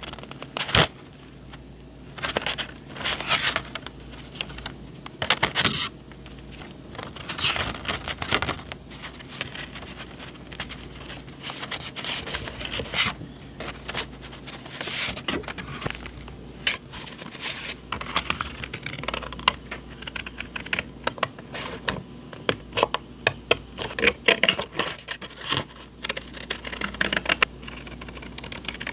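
Paper journaling supplies being handled: irregular rustling and sliding of sheets, with light taps and clicks.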